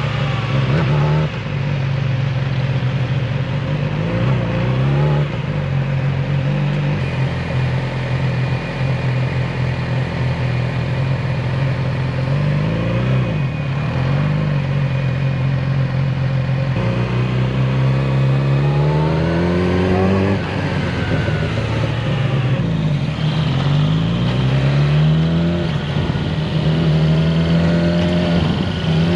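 Motorcycle engine running at low riding speed, mostly at a steady pitch, rising and falling in pitch several times in the second half as the throttle opens and closes.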